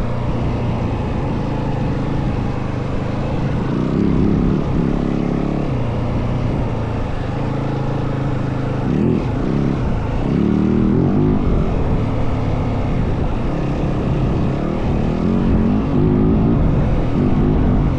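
Yamaha WR450F dirt bike's single-cylinder four-stroke engine running under way, its revs rising and falling several times as the throttle is worked.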